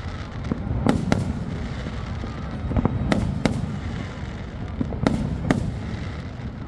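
Fireworks shells bursting: about seven sharp bangs, several coming in quick pairs, over a steady low rumble.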